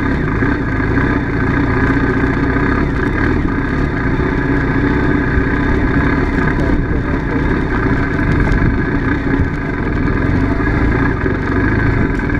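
Adventure motorcycle engine running steadily under way, picked up by a camera mounted on the bike itself.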